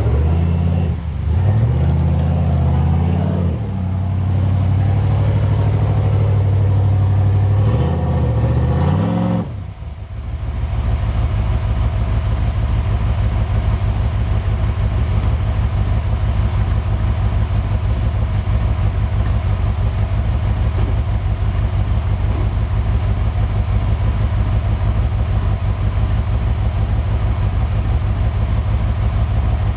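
A 4x4 off-road truck's engine revving up and down for about ten seconds, then, after a brief drop, idling steadily with an even low pulse.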